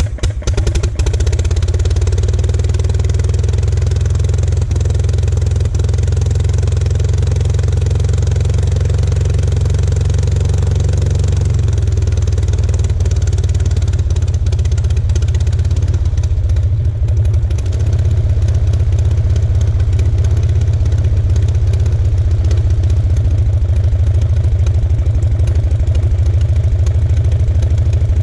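Two-cylinder Aeronca aero engine of an Aeronca C2, with its propeller turning, running steadily on a ground run just after starting. Its note shifts about twelve seconds in, and the sound dips briefly a few seconds later.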